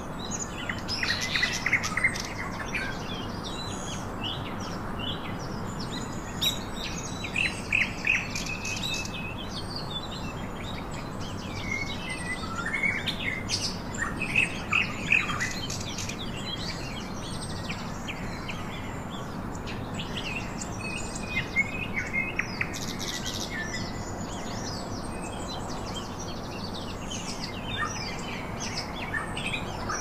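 Birds chirping and calling in scattered bouts of short, high notes, with quieter gaps between, over a steady background hiss.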